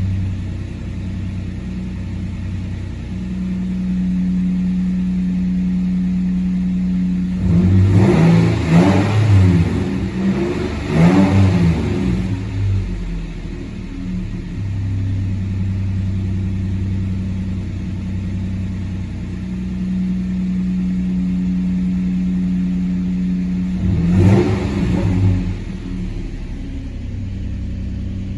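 2007 Nissan Frontier's 4.0-litre V6 idling steadily, revved briefly a couple of times about eight to twelve seconds in and once more near the end, each time settling back to idle.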